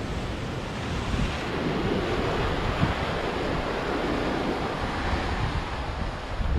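Sea waves breaking and washing up the shore in a continuous surf wash, swelling a little about a second in, with wind buffeting the microphone.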